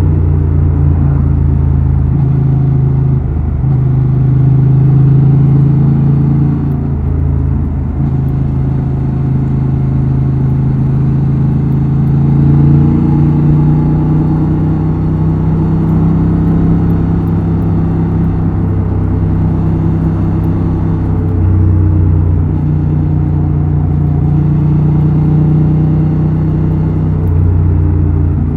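Honda XL750 Transalp's 755 cc parallel-twin engine and exhaust running under way. Its pitch and loudness rise and fall several times with the throttle.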